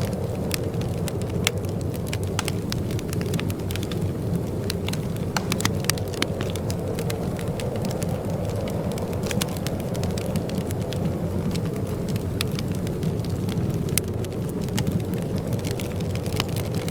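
Wood fire in a fireplace crackling, with sharp irregular pops and snaps over a steady low rushing roar.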